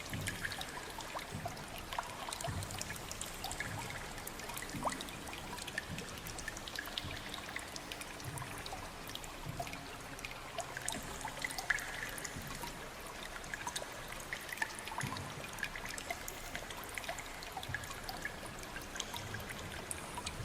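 Water trickling and pouring steadily, with many small scattered drips and splashes.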